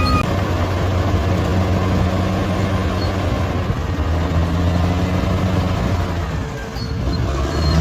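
Bulldozer's diesel engine running steadily with a low hum, dipping briefly near the end.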